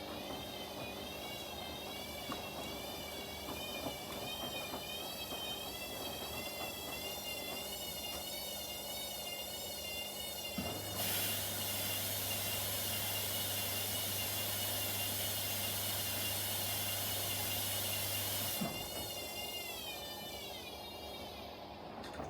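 Washing machines running mid-cycle: a motor whine wavers steadily up and down in pitch. About halfway through, a steady low hum with a loud rushing hiss switches on, runs for about eight seconds and cuts off sharply.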